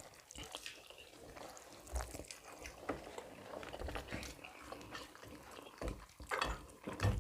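Faint eating sounds: wet chewing and mouth noises with scattered small clicks and knocks of cutlery or dishes, a louder clatter near the end.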